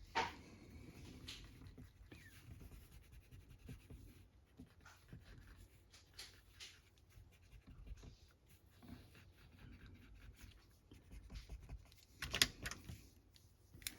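Hands rubbing document-cleaner eraser crumbs over the paper cover of a comic book, a soft irregular scrubbing of short strokes, with a louder stroke right at the start and another near the end.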